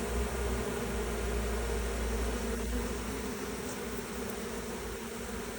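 Many honeybees buzzing steadily at a hive entrance, some fanning their wings to spread scent that guides returning foragers to the hive's new spot. A low rumble sits under the buzz and fades out about halfway through.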